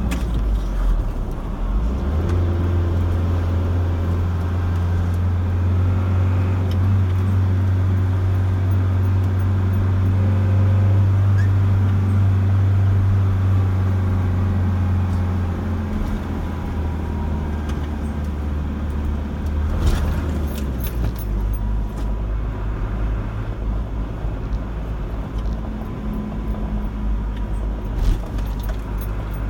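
Car driving on the road: a steady low engine and road drone that shifts lower about twenty seconds in, with a short knock there and another near the end.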